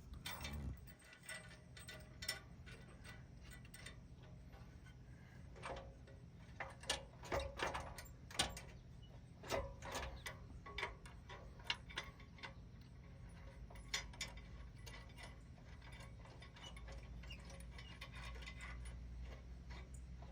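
Hand ratchet wrench clicking and metal tools clinking as bumper bolts are run in: scattered clicks and small knocks, bunched in short runs.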